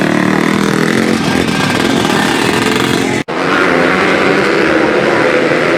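Motocross dirt bike engines running at high revs, with a brief break in the sound about three seconds in.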